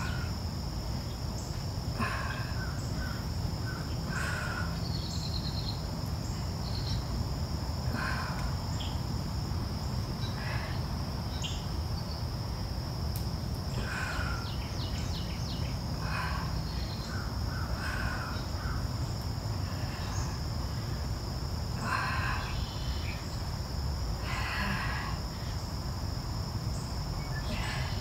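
Birds outdoors calling in short, harsh calls that come back every two to three seconds, over a steady high insect drone and a low background rumble.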